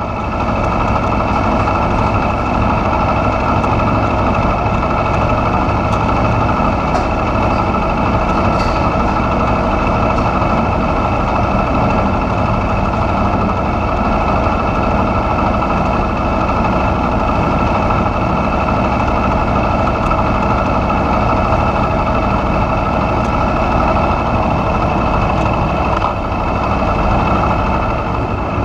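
Aprilia Tuono V4R's V4 motorcycle engine idling steadily, with no revving.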